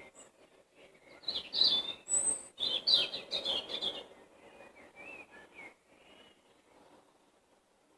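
Songbirds singing: a loud run of quick chirping notes from about one to four seconds in, then softer scattered calls.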